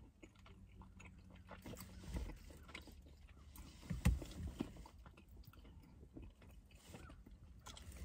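Faint mouth sounds of a person chewing tender, fall-off-the-bone oxtail, with a couple of soft knocks about two and four seconds in.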